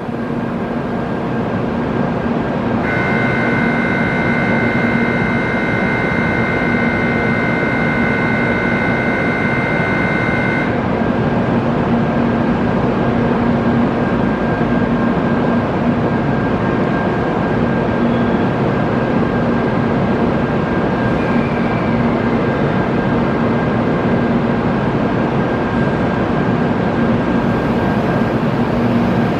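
Steady hum and station ambience of an N700-series Shinkansen standing at the platform. From about three seconds in, a steady electronic tone with several pitches sounds for about eight seconds, then stops.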